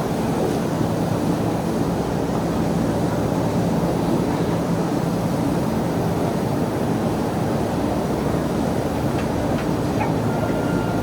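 Commuter train moving along a station platform: a steady rumble of wheels and motors with no pauses.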